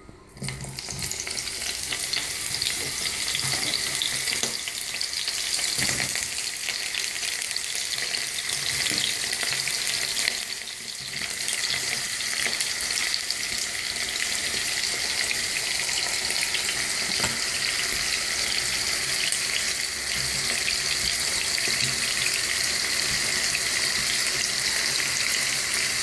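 Cubed eggplant sizzling in hot vegetable oil in a frying pan, the crackle starting abruptly as the first pieces go in. It holds as a dense, steady crackling hiss, with a brief lull about ten seconds in.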